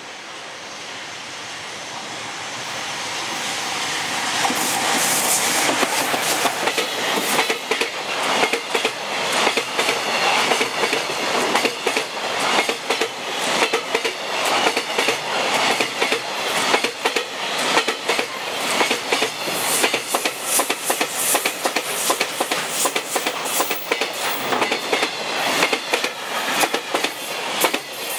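Freight train hauled by an EF200 electric locomotive passing close by: the sound builds over the first few seconds as the locomotive approaches, then a long string of container wagons rolls past with rapid clacking of wheels over rail joints.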